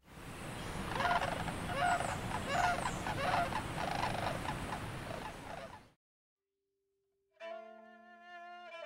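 A bird calls over and over, about every three-quarters of a second, over a steady outdoor hiss; the sound cuts off about six seconds in. After a short silence, bowed strings begin holding a chord near the end.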